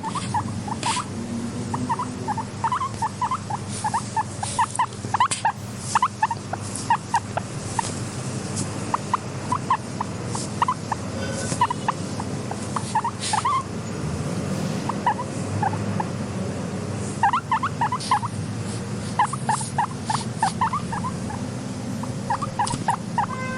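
Guinea pigs chuttering: runs of short squeaks in quick clusters, with brief pauses between, over a steady low hum.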